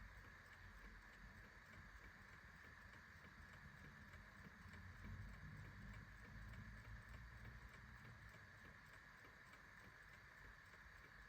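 Clock ticking faintly with an even, regular tick over a steady low hiss and rumble.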